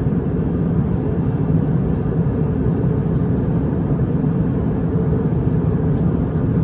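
Steady low drone of a narrow-body jet airliner's cabin in flight, engine and airflow noise, with a few faint clicks.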